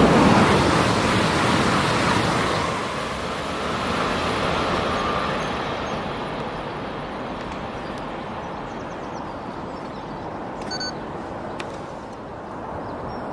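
A passing electric train's noise fading away as it recedes, dying down over the first several seconds to a low, steady background rumble.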